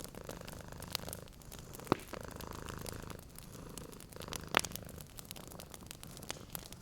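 A cat purring steadily in a low rumble, over a wood fire crackling with scattered sharp pops, two louder ones about two and four and a half seconds in.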